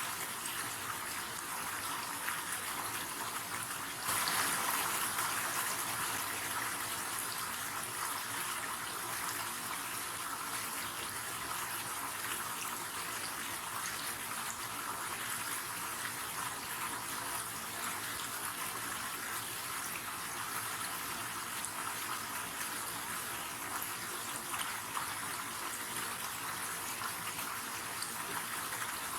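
River water flowing in a steady rush, with a brief swell in loudness about four seconds in before it settles back.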